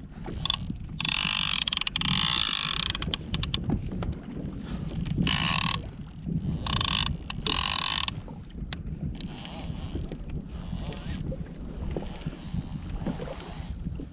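Fishing reel drag buzzing in several bursts, each lasting about half a second to two seconds, as a hooked fish pulls line off the reel. Under it is a steady rumble of wind and water.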